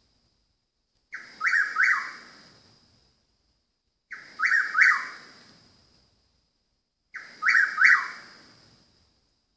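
A bird calling: a short two-note phrase repeated three times about three seconds apart, each note sharp at the start and falling away at the end. The uploader asks whether it is a northern mockingbird.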